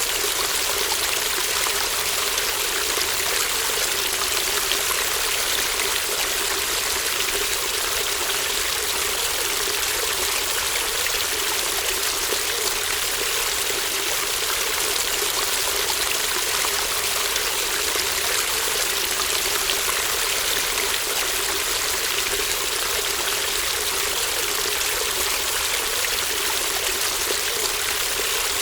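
Babbling brook: shallow running water flowing steadily, with no pauses or changes.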